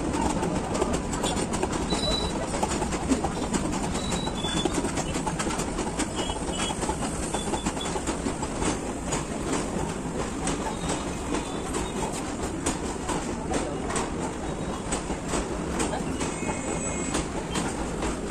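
Long freight train of open wagons loaded with coal rolling past. A steady rumble carries a continual clickety-clack of wheels over the rail joints, with a few brief high squeals.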